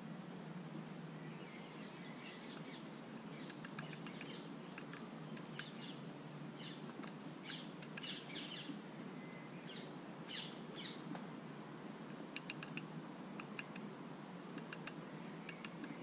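Birds chirping in short, high calls that come in little clusters, with a few sharp ticks in the last few seconds, over a steady low background hum.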